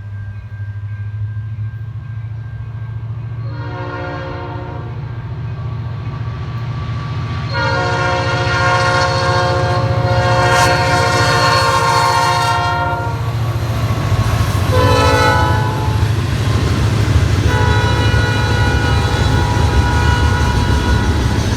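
Approaching CN freight diesel locomotive sounding its multi-note air horn in four blasts, long, long, short, long: the grade-crossing signal. Beneath the horn, the locomotive and its train rumble steadily and grow louder as they near.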